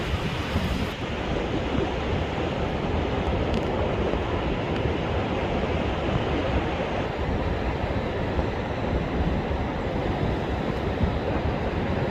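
Rough surf breaking and washing on a sandy beach in strong wind, a continuous heavy noise of waves with no break.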